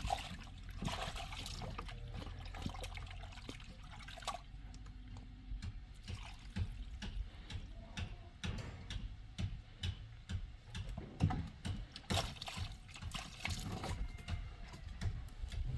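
Water splashing and trickling, with many small clicks and knocks throughout over a steady low rumble.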